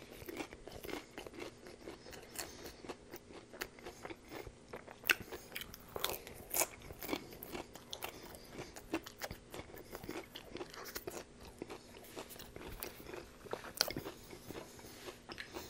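Close-miked crunchy chewing and biting of a fried, battered chicken-breast shell, a series of small irregular crunches and wet mouth sounds.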